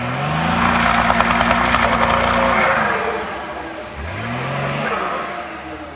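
Off-road 4x4's engine revving hard. It holds high revs for about two and a half seconds, drops back, then revs up again about four seconds in before falling off.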